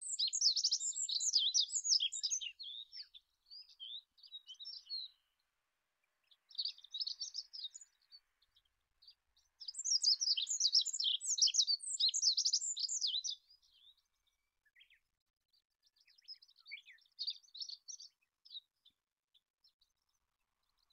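Olive-backed pipit singing: four bursts of rapid, high, thin twittering notes, separated by pauses of one to two seconds.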